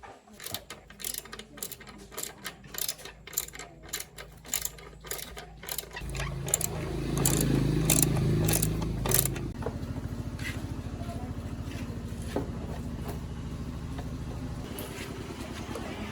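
A run of sharp mechanical clicks, then about six seconds in a restored motorbike's engine starts, runs faster for a few seconds and settles into a steady idle.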